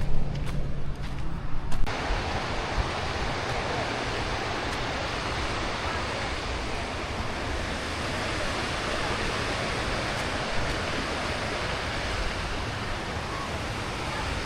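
Steady rushing of water from a small waterfall on a creek, starting abruptly about two seconds in after a few knocks and a low rumble.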